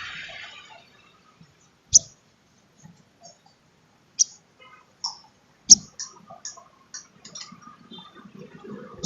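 Sunbird calling: short, sharp, high-pitched chirps with gaps between them, breaking into a quick run of chirps a little after halfway.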